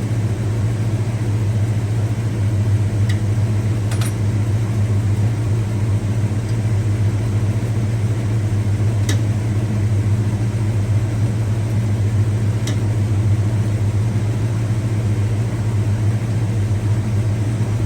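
A steady, unchanging low machine hum, with a few faint clicks.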